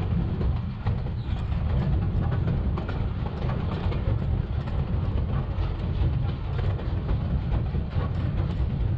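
Narrow-gauge vintage railway cars rolling along the track: a steady low rumble with faint, irregular clicks of the wheels running over the rails.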